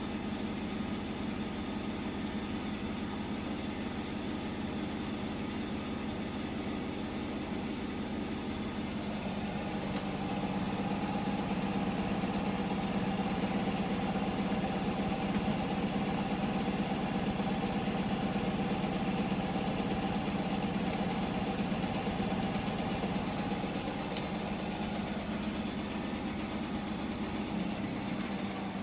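Hotpoint washing machine running its spin at the end of the wash: a steady motor hum and whine that gets louder about ten seconds in and eases off again near the end.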